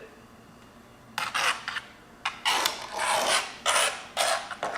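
Plastic laptop casing being handled and shifted on a work surface, scraping and rubbing in several short irregular strokes after about a second of quiet.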